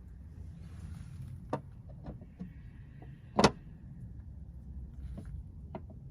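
A few light clicks and knocks, with one sharp, loud knock about three and a half seconds in, over a steady low rumble.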